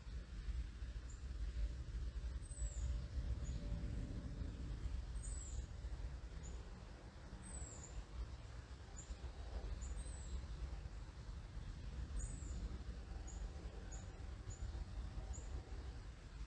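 A small bird repeats very high, thin, downslurred call notes about every second or two, with shorter chips between them, over a steady low rumble.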